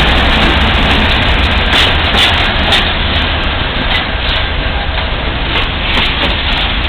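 Freight train rolling past close by: a loud, steady rumble of railcars with irregular sharp clacks of wheels on the rail, easing off slightly toward the end.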